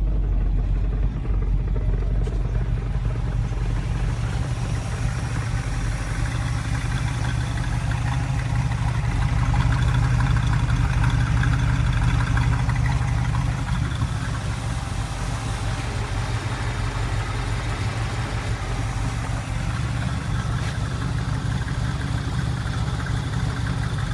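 A 350 cubic-inch Chevrolet small-block V8, swapped into a Vega, running steadily with a deep rumble. It gets a little louder for a few seconds in the middle.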